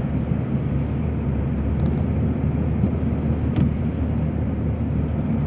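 Steady low rumble of a car's engine and tyres on the road, heard from inside the cabin while driving. A single faint tick comes about three and a half seconds in.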